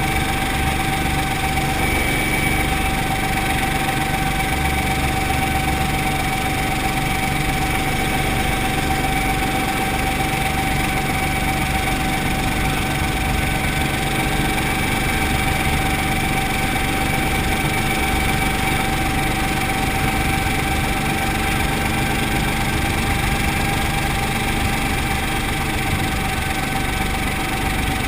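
Brantly B-2B helicopter's four-cylinder Lycoming piston engine and rotor running steadily: an even, unchanging drone with a steady high tone over it.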